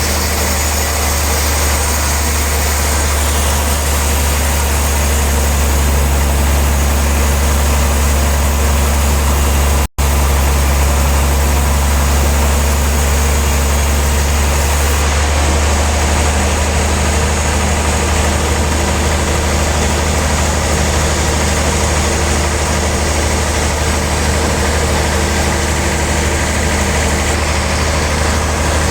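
Log sawmill machinery running steadily: a constant low hum under an even hiss. It drops out for an instant about ten seconds in.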